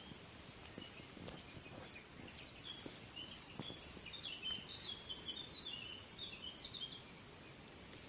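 A songbird singing a quick run of short, high chirping notes, loudest for about three seconds in the middle, with a few faint clicks and rustles of the currant bush being handled.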